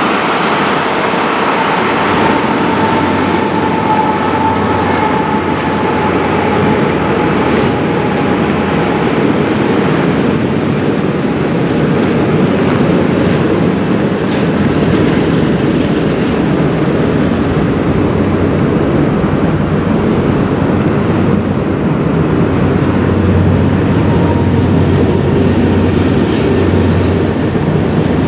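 A train running past on the rails: a loud, steady noise, with a faint high whine in the first several seconds.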